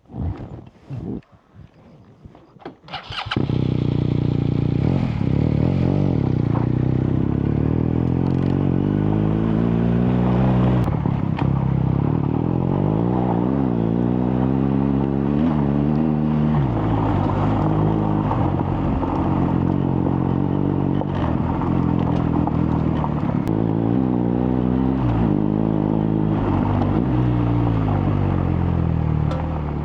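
BMW R1250GS motorcycle engine that comes in suddenly about three seconds in, after a few light knocks, and then runs steadily, its pitch rising and falling again and again.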